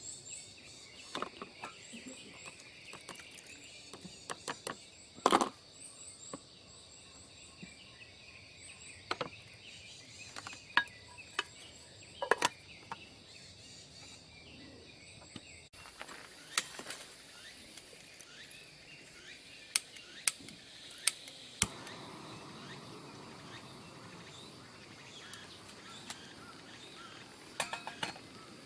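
Quiet outdoor ambience with a steady high chirring background and scattered sharp clicks and knocks, like small camp gear being handled. The background changes abruptly about 16 s in.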